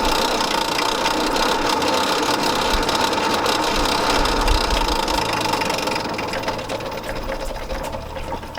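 A small motor-driven shop machine running with a steady whine, dying down over the last few seconds.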